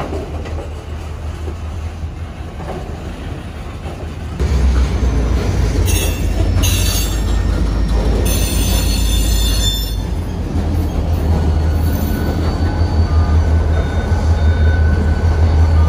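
Freight train moving, with a steady low diesel rumble that gets louder about four and a half seconds in. Short bursts of high-pitched wheel squeal come around six seconds in and again from about eight to ten seconds in.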